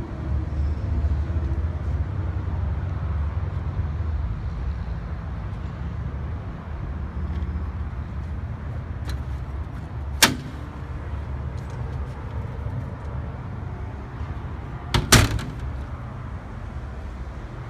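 A diesel truck engine idles steadily with a low rumble. About ten seconds in there is one sharp metallic click, and at about fifteen seconds a louder double clack, like a door or latch closing.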